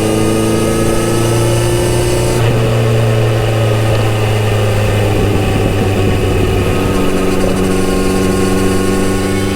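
Kawasaki Z900RS inline-four on its original exhaust, running while being ridden, with wind rush. About two and a half seconds in the engine note steps down and the wind rush fades, and the engine then runs on at a steady, lower note.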